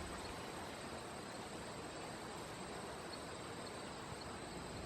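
Faint, steady outdoor background hiss with a constant high-pitched insect trill running through it.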